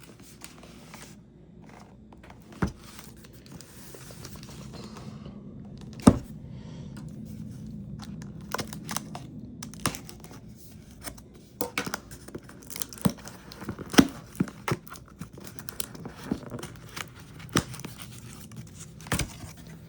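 A product box being opened by hand: tearing and crinkling of the packaging, with rustling and several sharp taps and knocks, the loudest about six seconds in and again about fourteen seconds in.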